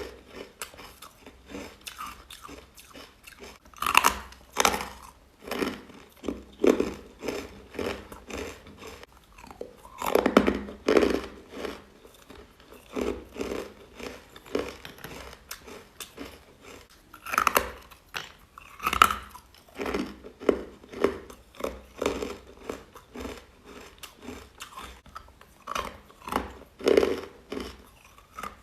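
A person biting and chewing chalky, powdery white ice: a steady run of crisp crunches, with louder bursts of crunching every few seconds.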